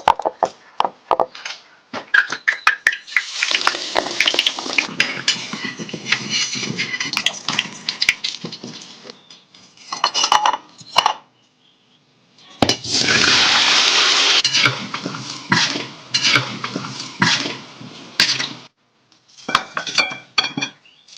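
Dishes and cutlery clinking and knocking in a sink, with tap water running in two long stretches.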